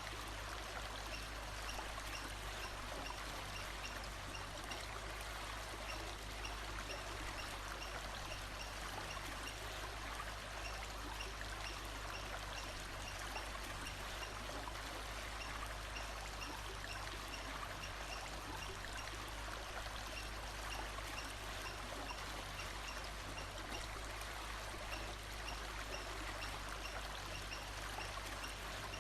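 Steady rush of running water, like a stream, unchanging throughout, with faint high peeps recurring every second or so above it.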